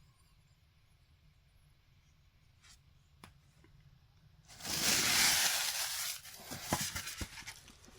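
Packaging being torn open during an unboxing: a loud rip lasting about a second and a half about halfway through, followed by crinkling and a few sharp clicks.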